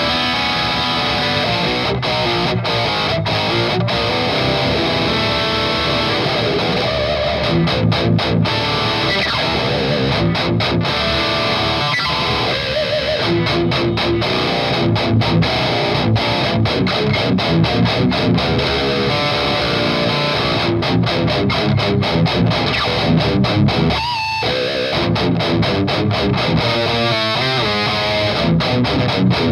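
Electric guitar, a 7-string with an EMG 81X active pickup, played through a Noise Pollution Pedals Psycho Metal Death Machine high-gain distortion pedal into an amp: tight, bright metal riffing with many sudden stops between chugs.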